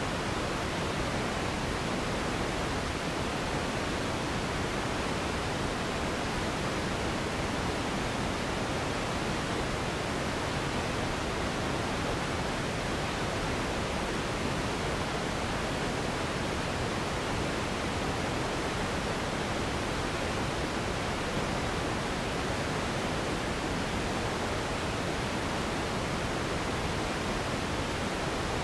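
Steady synthetic pink noise: an even, unchanging hiss spread across the whole range, fuller in the low and middle frequencies than white noise.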